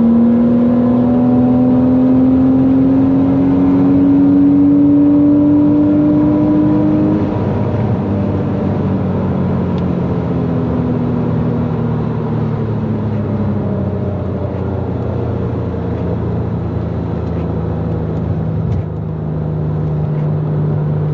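Porsche Boxster S 3.2-litre flat-six, freshly rebuilt, pulling under acceleration: its pitch climbs steadily for about seven seconds, drops as the revs come off, then holds lower and steady near the end.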